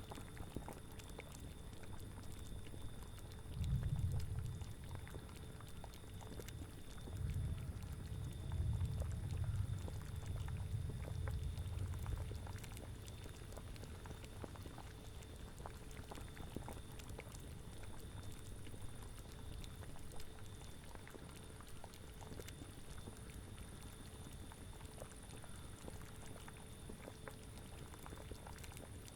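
A cauldron of liquid bubbling steadily at a boil, with many small pops. Low gusts of wind swell up about four seconds in and again from about seven to twelve seconds.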